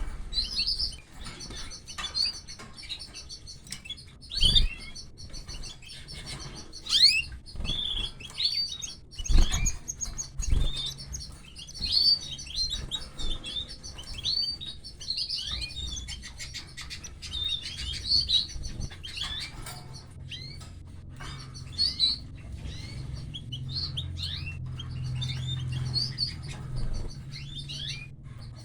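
Canaries chirping busily: many short, quick, high calls, often rising in pitch, with a few sharp knocks in between.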